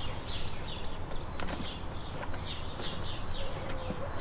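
Birds chirping in short, repeated falling notes, two or three a second, with a few faint light clicks as a metal bolt is threaded by hand into a motorcycle's plastic side panel.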